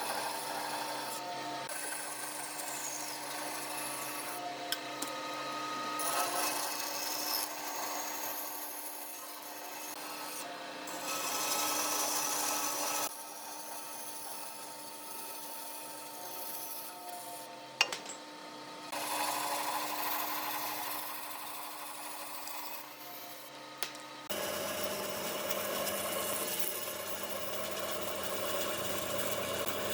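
Wood being sanded or rasped with a rough, scraping sound over the steady hum of a running woodworking machine. The sound changes abruptly twice, about halfway through and again near the three-quarter mark.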